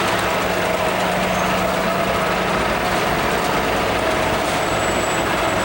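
A large engine of a piece of heavy equipment running steadily.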